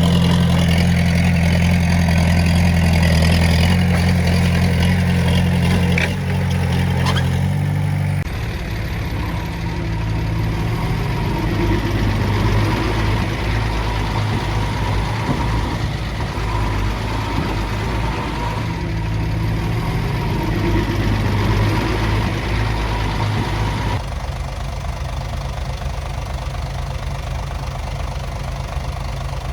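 Heavy-equipment diesel engine running steadily, its sound shifting abruptly in pitch and level a few times: twice about a quarter of the way in and again near the end.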